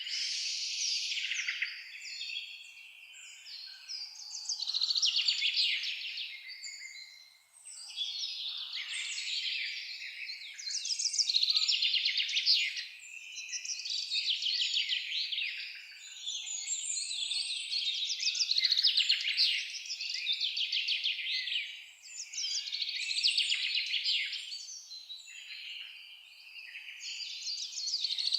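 Forest songbirds singing, overlapping fast trilled phrases that swell and fade every few seconds.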